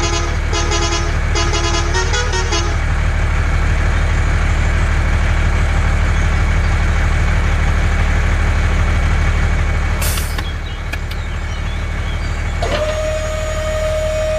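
Truck engine running steadily, with a quick run of tooting horn notes in the first couple of seconds and a single held tone coming in near the end.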